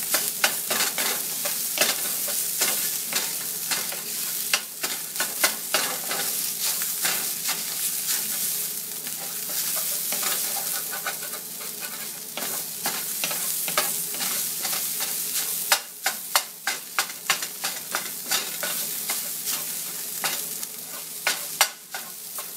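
Canned tuna frying in a 19th-century gate-marked cast iron skillet: a steady sizzle, with a utensil scraping and knocking against the pan as it is stirred. The knocks come in quick runs: at the start, about five seconds in, for a couple of seconds past the middle, and again near the end.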